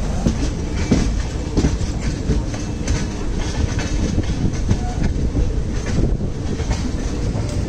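Passenger train coach running at speed: a steady rumble from the wheels and bogies with frequent irregular clacks and clatters of the wheels over the rails, loud at the open doorway.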